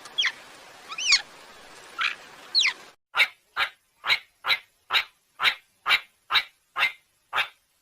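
Cheetah chirping: a few short, high, bird-like chirps, then a series of about ten evenly spaced chirps, a little over two a second.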